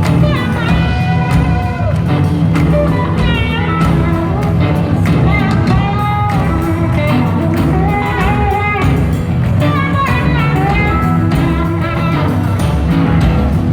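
Live blues-rock band playing full out: electric guitar lines with gliding pitch bends over steady bass and drums.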